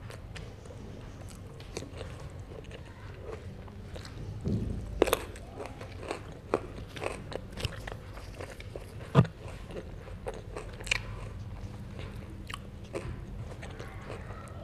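Close-miked eating of herring: irregular wet chewing clicks and crunchy bites, the sharpest about five and nine seconds in.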